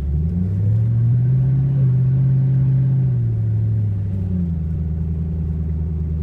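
Car engine heard from inside the cabin, its note rising in the first second, held for a few seconds, then dropping back to a steady lower drone as the car drives on.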